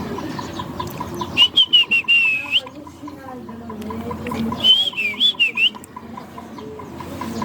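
Pet parrot calling twice, about three seconds apart. Each call is a whistled, wavering squawk about a second long, led in by a quick run of clicks.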